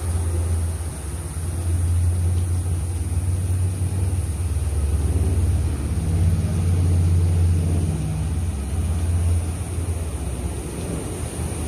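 Taiwan Railway EMU900-series electric multiple unit running into the station: a low rumble and hum that builds a couple of seconds in, is loudest a little past halfway, and eases off near the end.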